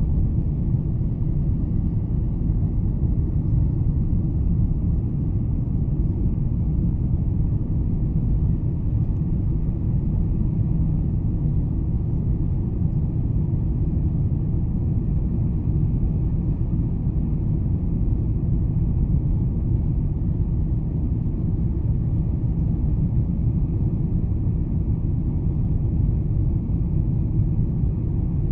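Steady low rumble of a Boeing 747-400 in climb, heard from inside the passenger cabin: engine and airflow noise with no change in pitch or level.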